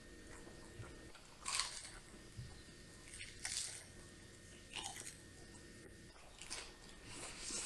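Close-miked chewing of tacos, with a crunchy bite or chew every second or two.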